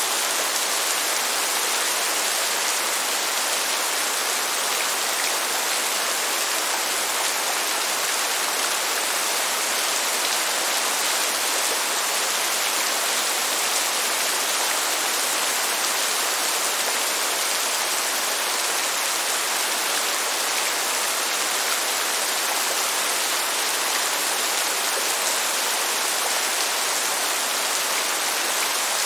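Steady rain: an even, unbroken hiss with no thunderclaps.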